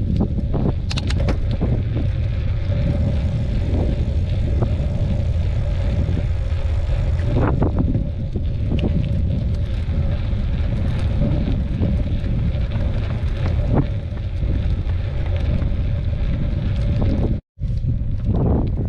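Wind buffeting the microphone during a mountain-bike ride, with a faint steady hum and a few short rattles. The sound cuts out for a moment near the end.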